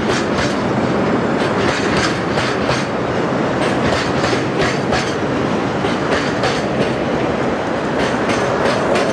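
Freight train of railway tank wagons rolling past close by: a steady rumble of wheels on rail with repeated clicks several times a second as the wheels cross rail joints.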